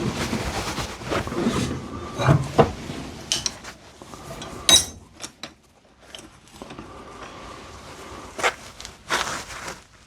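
Irregular knocks and scraping of metal being handled at a workbench, with a few sharp clicks and one bright, ringing metallic clink about five seconds in.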